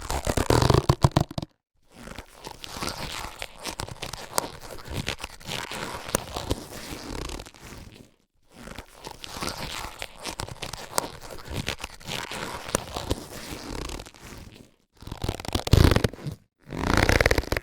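Latex surgical gloves being handled, rubbing and crackling. There is a louder burst at the start and another near the end, with two long stretches of dense crackling between them, each separated by a brief pause.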